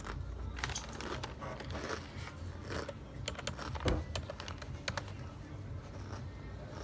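Close-up eating and food-handling noises: a run of sharp clicks and crackles, thickest over the first five seconds, then fewer.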